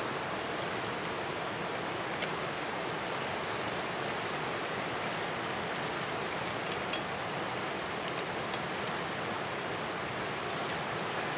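Steady rush of a fast-flowing mountain river, with a few small sharp ticks in the middle.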